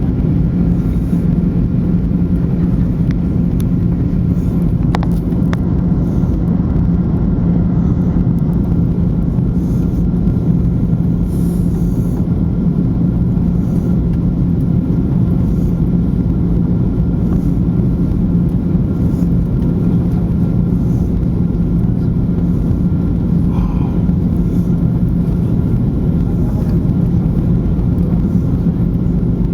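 Steady low rumble with a constant low hum, unchanging throughout, typical of aircraft engines droning.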